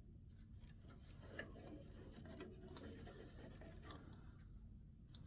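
Faint scratchy rubbing as furniture wax is worked into a turned walnut wand, starting just after the beginning and stopping shortly before the end.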